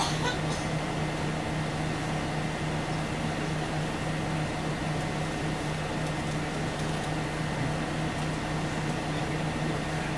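Scania OmniLink CL94UB city bus heard from inside the passenger cabin: the engine's steady hum and cabin noise, with a few light clicks at the start.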